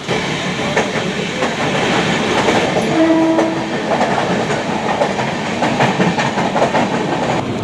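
Mumbai suburban local train running on the track, with a dense rumble and irregular wheel clacks over rail joints. A short steady tone sounds about three seconds in.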